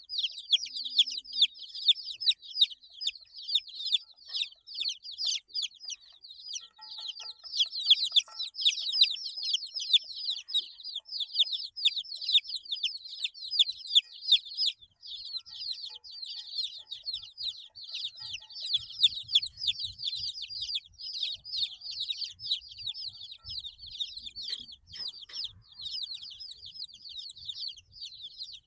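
A group of 8-day-old chicks cheeping continuously, many short high-pitched peeps overlapping in a dense chorus.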